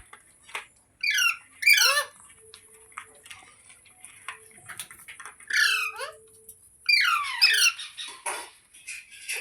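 Green parrot giving a series of short, shrill squawking calls in clusters, about five bursts with short pauses between.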